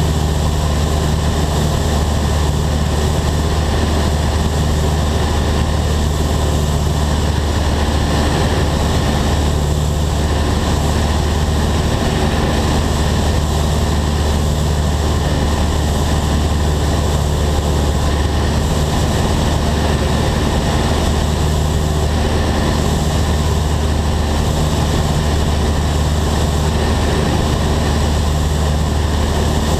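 Single-engine piston airplane's engine and propeller running steadily and loud, with a deep, unchanging hum and no breaks.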